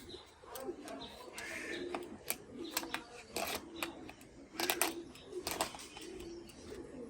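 A bird cooing with low, repeated calls, with several sharp clicks in between.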